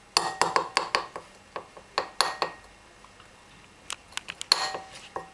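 A metal spoon clinking against a bowl and jar while treacle is scooped out: a run of sharp clinks and taps in several clusters, with short quiet gaps between.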